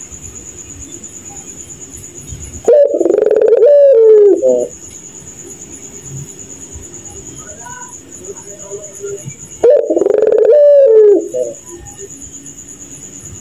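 Puter pelung domestic dove giving two long, loud, laugh-like coos of about two seconds each, several seconds apart, with a steady faint high whine in the background between them.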